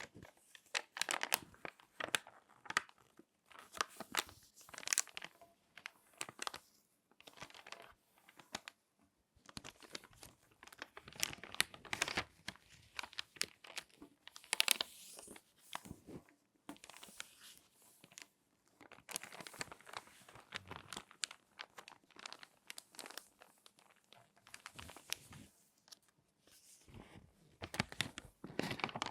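Glossy magazine pages being folded and crinkled by hand: irregular bursts of crisp crackling paper with short pauses between them.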